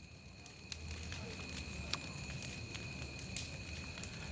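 Bonfire crackling: scattered sharp pops and snaps over a low rumble.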